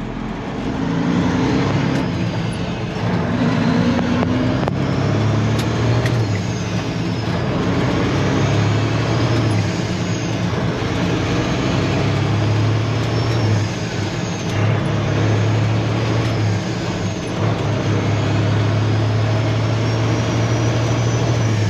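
Peterbilt semi truck with straight-pipe exhaust running steadily down the road: a continuous low engine drone over road noise, dipping briefly a few times.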